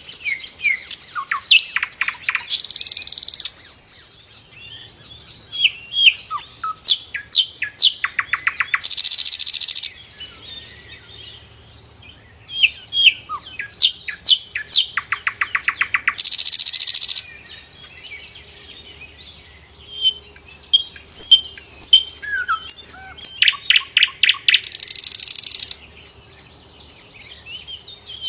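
Sikatan londo flycatcher singing four times in a row. Each song starts with scattered sharp chirps, speeds up into a fast rattling trill and ends in a high buzzy note.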